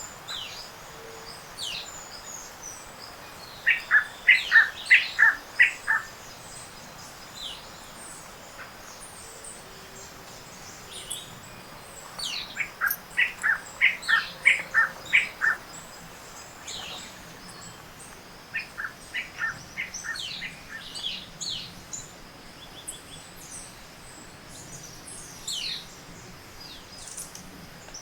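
Tropical forest morning bird chorus, with several species calling over one another. One bird repeatedly gives quick runs of six to eight sharp, downward-slurred notes, three times across the stretch, while thinner high calls and chips come and go around it.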